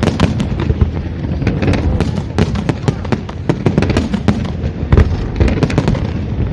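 Fireworks display: a dense, unbroken barrage of bangs and crackling over a low rumble, with a few louder bangs standing out, one about five seconds in.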